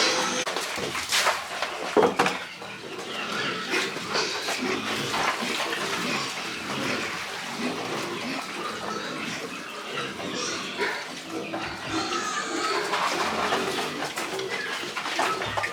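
Pigs grunting in a busy, irregular jumble, with two sharp knocks about one and two seconds in.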